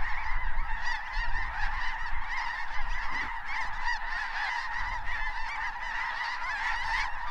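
A large flock of snow geese calling overhead: a dense, unbroken chorus of many overlapping high-pitched honks.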